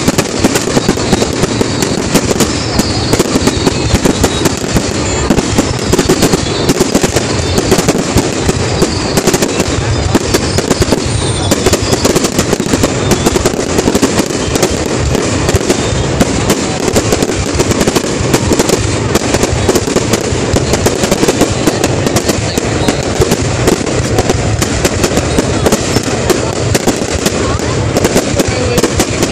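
Aerial fireworks display: a dense, continuous stream of bangs and crackling from shells bursting overhead, with no break.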